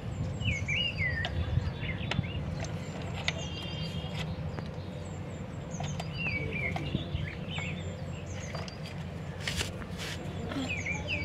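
Birds chirping in short phrases of curving calls, heard three times, over a low steady background noise, with occasional sharp clicks and knocks from plastic toy tractor wheels and parts being handled and pushed onto their axles.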